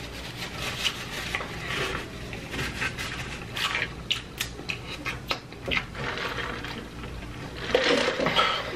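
A person chewing a mouthful of large cheeseburger, close to the microphone: irregular wet mouth clicks and smacks. A short voiced sound comes near the end.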